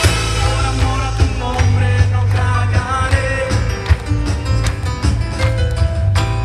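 Live band music with a steady beat: strong bass, drums and guitar, with some singing.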